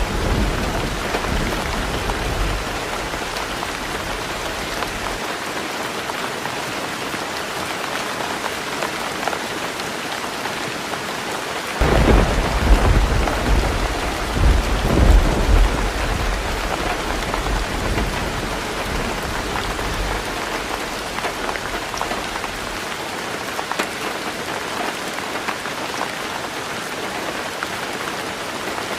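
Heavy rain falling steadily on a tin roof, with thunder. A low rumble fades out over the first few seconds; about twelve seconds in a louder roll of thunder breaks in suddenly, swells twice and dies away over the next several seconds.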